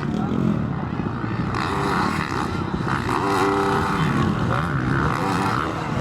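Motocross dirt bike engines running and revving.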